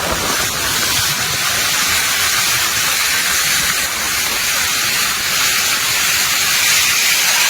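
Heavy rain and strong gusting wind of a summer storm: a loud, unbroken rushing hiss, with the wind buffeting the microphone in a low rumble.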